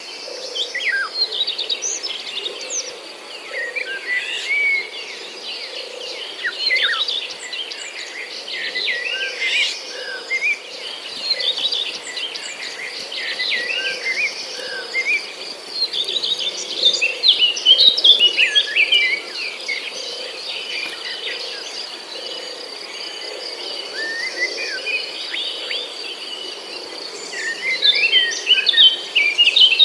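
Many birds chirping and singing in short trills and calls over a steady, high-pitched insect drone, like crickets or cicadas, with busier bursts of calls about halfway through and again near the end.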